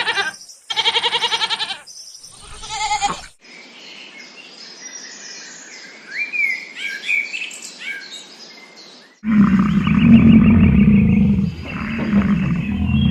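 A sequence of animal calls. First, two loud wavering bleats from a goat or sheep. Then, from about 3 s to 9 s, small birds chirp and sing over a faint hiss. About 9 s in, a loud, deep, rough animal roar begins and carries on.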